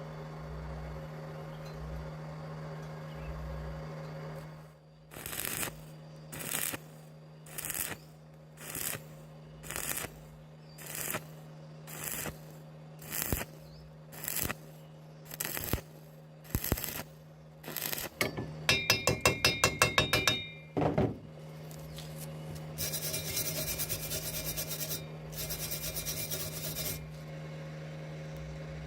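A welding machine hums steadily while thin square steel tube is stitch-welded in about a dozen short arc bursts, each roughly a second apart. Then comes a quick run of ringing metal taps, and a few seconds of scratchy scraping on the metal.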